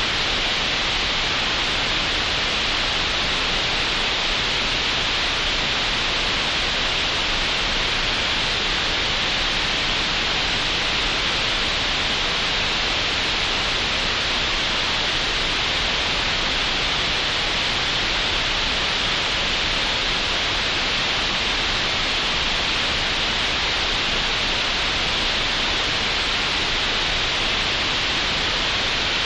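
Synthesised green noise made in Audacity: a steady, unchanging hiss, strongest in the upper mid-range, with nothing above the high treble.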